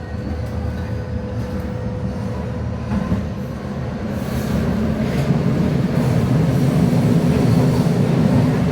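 Ansaldo Breda Ankaray light-metro train running on its rails, a steady low wheel-on-rail rumble that grows louder about halfway through.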